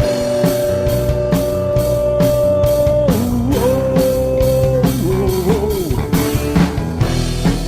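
Live rock band playing an instrumental passage: a lead electric guitar holds one long note, then plays notes that bend up and down from about three seconds in, over steady drums and bass.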